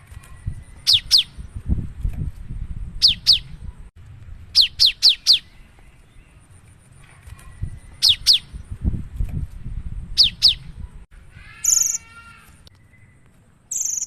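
Cinereous tit (gelatik batu) singing: clusters of two to four sharp, high, downward-sliding whistled notes, repeated every couple of seconds. About two-thirds of the way through there is a harsher buzzy call. A low rumble runs underneath.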